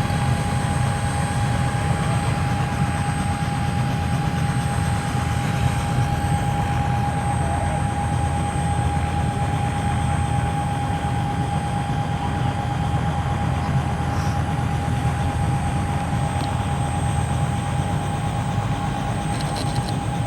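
An engine running steadily: a dense low rumble with a constant whine held over it.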